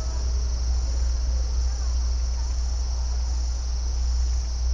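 Crickets chirping in a steady high, continuous trill over a constant low rumble, with faint short calls from other animals now and then.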